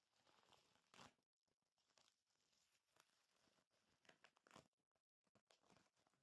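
Faint rustling and crinkling of packaging being handled, broken by a few short sharp taps, the clearest about a second in.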